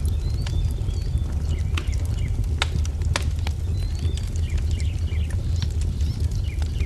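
Wood fire crackling over a steady low rumble, with sharp pops, two louder ones about two and a half and three seconds in, while songbirds chirp repeatedly.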